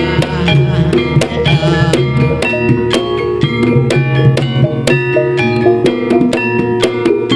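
Gending Banyumasan gamelan music for jaranan, heavy in the bass, with a busy run of drum strokes under ringing pitched notes.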